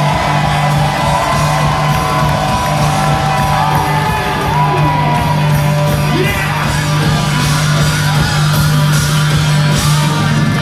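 Live hard rock band playing loud, distorted music, a steady held bass note under gliding guitar lines, with shouts and whoops over it.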